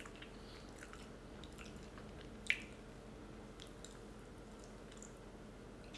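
Faint, close-miked chewing and wet mouth sounds, scattered soft clicks with one sharper click about two and a half seconds in.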